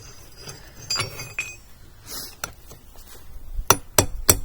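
Hammer blows on steel over an anvil, each with a short bright metallic ring: a few lighter strikes, then three hard blows about a third of a second apart near the end. The thin spike steel is being bent down while it has already gone cold.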